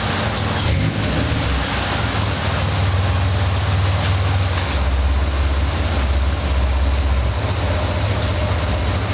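Exhaust of a Chevrolet Impala's 3.4-litre 60-degree V6 running through a Flowmaster 40 two-chamber muffler: a steady low drone that deepens about five seconds in and lifts back up near eight seconds.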